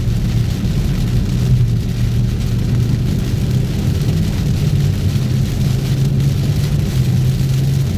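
Car driving through heavy rain: a steady low drone of engine and road under an even hiss of rain.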